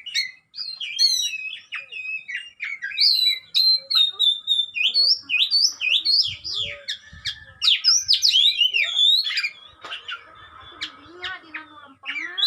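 Oriental magpie-robin (kacer) singing a rapid, varied string of whistles, slurred pitch glides and sharp chirps, the kind of song used as a lure to fire up a kacer. Near the end the song turns to a harsher, rasping stretch.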